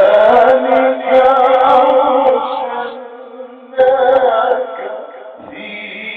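A man reciting the Quran in a drawn-out melodic chant, his voice wavering through ornamented turns on long held notes. The phrase breaks off a little before four seconds in, and a second phrase follows and fades.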